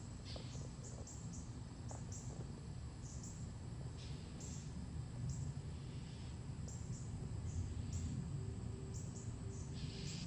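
Outdoor ambience: a steady low rumble with a thin continuous high tone and many faint, short high chirps at irregular intervals.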